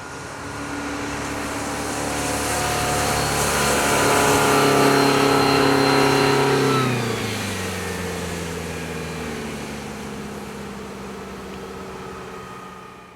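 Sea Ray 185 Sport runabout with a MerCruiser 3.0 four-cylinder sterndrive passing by at speed: the engine note grows louder, then drops in pitch about seven seconds in as the boat goes past, and fades away over a steady hiss.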